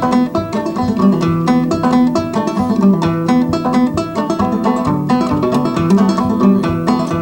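Banjo instrumental break, with quick picked notes ringing in a steady rhythm and no singing.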